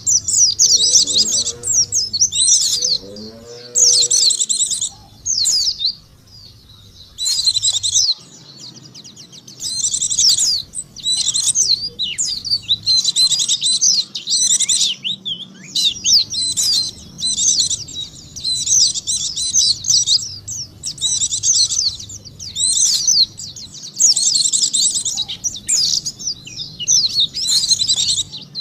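White-eye (pleci) song: rapid, high twittering phrases a second or two long, repeated over and over with short pauses, as played to lure white-eyes.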